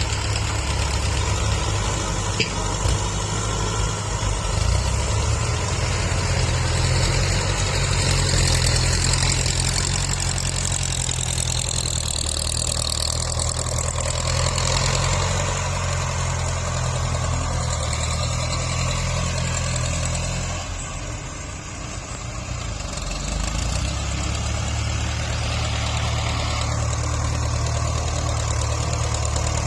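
Tractor's diesel engine running steadily under load while grading soil. It eases off briefly about two-thirds of the way through, then picks back up.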